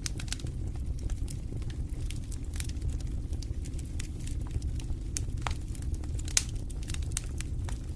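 Wood fire in a fireplace crackling: irregular sharp pops and snaps over a steady low rumble of the flames, with one louder pop a little past six seconds in.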